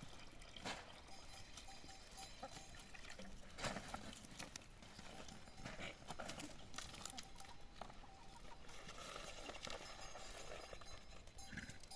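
Faint outdoor ambience with scattered sharp knocks and clicks at irregular intervals, the loudest about four seconds in.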